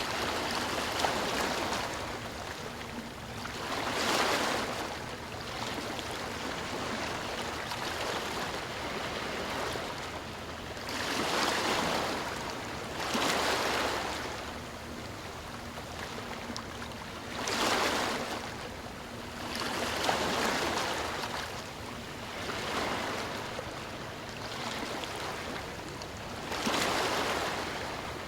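Sea waves breaking and washing in: a steady rush of surf with a louder surge every few seconds.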